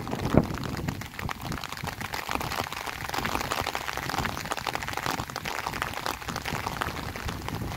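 Rain falling steadily, a dense patter of drops, with a brief buffet of wind on the microphone right at the start.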